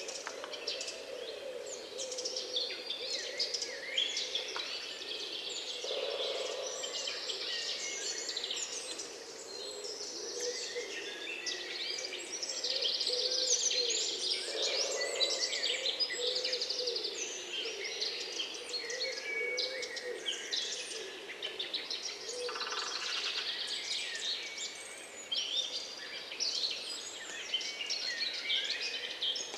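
A chorus of many songbirds singing together, with overlapping chirps, whistles and trills, over a lower, wavering bird call that comes and goes.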